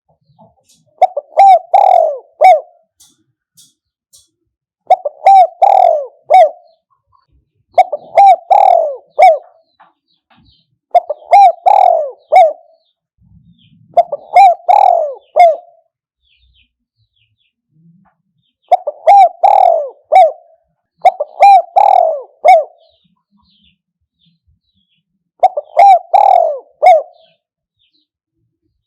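Spotted dove cooing: eight phrases of three or four low coos each, about one phrase every three seconds. This is a decoy-dove call recording of the kind used to lure wild spotted doves.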